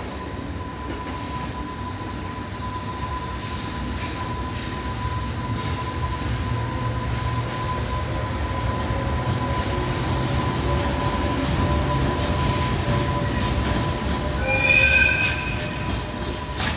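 JR Freight container train rolling through the yard, its rumble slowly building, with a thin steady whine that stops near the end. About three-quarters of the way in there is a brief shrill squeal of several tones.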